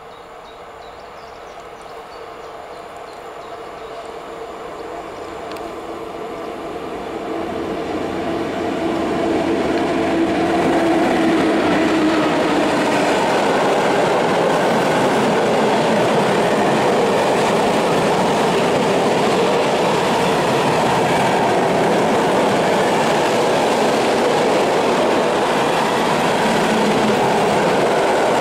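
ET22 electric locomotive hauling a freight train of open coal wagons, approaching and growing louder over about ten seconds. The wagons then roll past with a steady, loud rolling noise of wheels on the rails.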